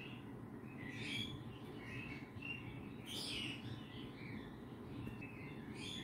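Faint, scattered short chirps from a small pet bird, a handful spread through, over a low steady room hum.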